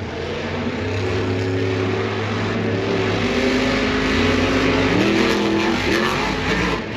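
Monster truck engines, supercharged alcohol-burning V8s, running hard at high revs during a head-to-head race. The engine pitch steps up about five seconds in.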